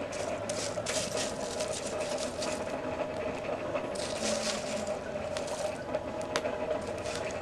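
A Champion 400 hand-crank forge blower whirring steadily as it feeds air to a freshly lit coke fire. The fire crackles, with scattered clicks and two short rustling bursts, about a second in and about four seconds in.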